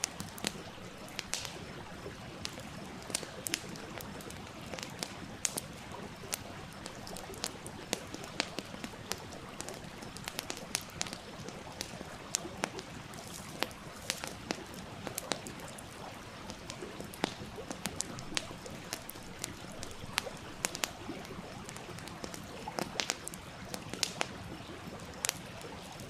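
Wood campfire crackling, with many irregular sharp snaps and pops over the steady rush of a flowing stream.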